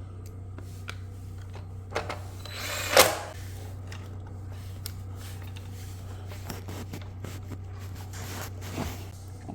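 Scattered clicks, knocks and rustles of parts being handled, with a louder rustle about three seconds in, over a steady low hum.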